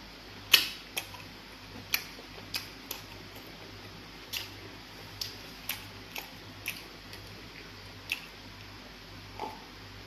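Close-miked eating of pounded fufu and egusi soup: sharp, wet mouth smacks and clicks from chewing, irregular, one or two a second, the loudest about half a second in, over a faint steady low hum.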